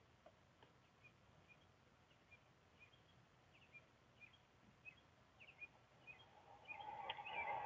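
Faint short bird chirps repeating every half second or so over a quiet background; from about seven seconds in, the hiss of an approaching car's tyres rises steadily.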